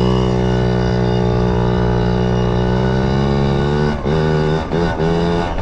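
Yamaha PW50's small two-stroke single-cylinder engine running with a steady drone, then from about four seconds in blipped up and down in short revs. The engine has just been drenched in water and, by the rider's account, is not running correctly.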